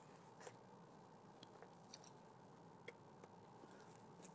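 Faint chewing and soft mouth clicks of a man eating, with a few small scattered clicks over low background quiet.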